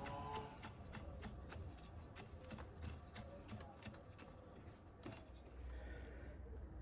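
Faint, irregular metallic clicks and small knocks from engine parts and tools being handled on the bench. Background music ends about half a second in.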